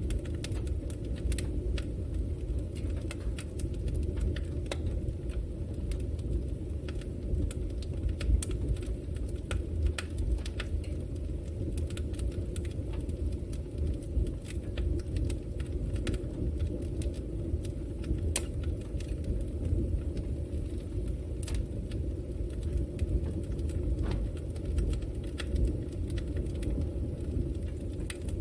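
Fireplace fire burning: a steady low rumble of flames with many sharp crackles and pops at irregular intervals.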